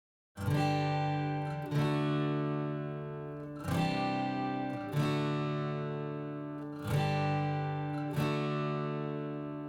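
Background music of strummed acoustic guitar: slow chords struck about every one to two seconds, each left to ring out, starting after a brief silence.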